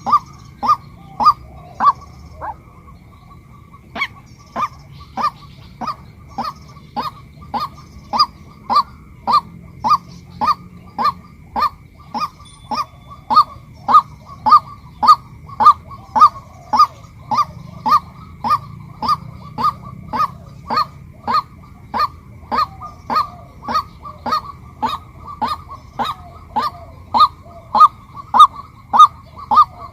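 Female White-breasted Waterhen calling, one short, sharp note repeated about twice a second, with a brief break about two and a half seconds in.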